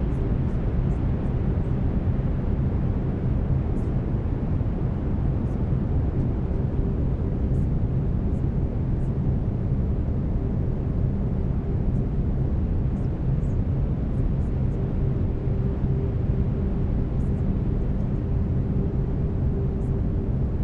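Steady brown noise, a deep, even rumbling hiss, with a faint steady tone underneath from the binaural beats.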